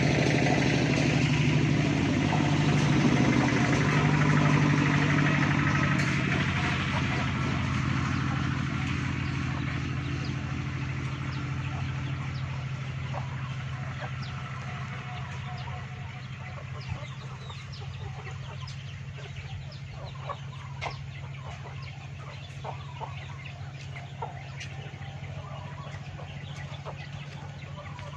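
Chickens clucking, with short, scattered clucks that stand out more in the second half. Under them, an engine's steady low hum fades away over the first half.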